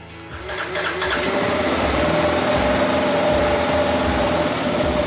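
2015 Kawasaki KLR 650's single-cylinder four-stroke engine starting up about half a second in, rising over the next second and settling into a steady idle. It runs again now that the split vacuum line to the fuel petcock is fixed and fuel can flow.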